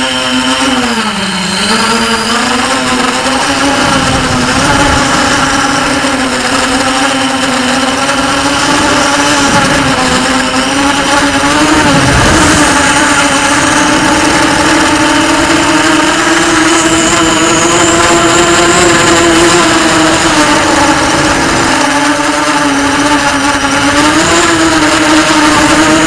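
Racing quadcopter's electric motors and propellers buzzing steadily under throttle. The pitch dips about a second and a half in, climbs back, and then drifts up and down a little as the throttle changes.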